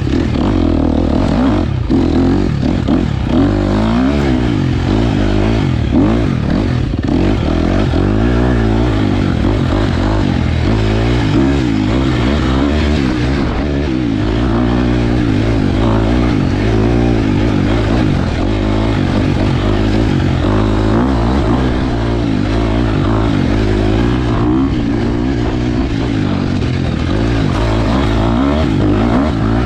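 KTM 250 XC-F dirt bike's four-stroke single-cylinder engine running hard on a trail ride, its revs repeatedly rising and falling as the throttle is opened and closed.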